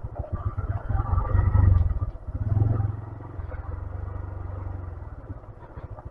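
A 125cc motorcycle running on a steep hill road, a low pulsing rumble that swells twice in the first three seconds and then settles.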